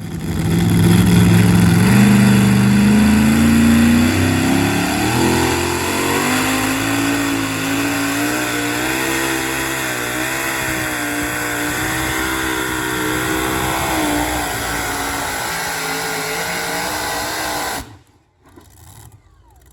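Super modified two-wheel-drive pulling truck's engine at full throttle during a pull, its pitch climbing over the first six seconds or so, then holding high with a wavering note. It cuts off suddenly near the end.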